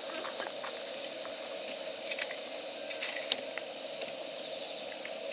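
Wood campfire crackling, with a few sharp pops about two and three seconds in over a steady hiss.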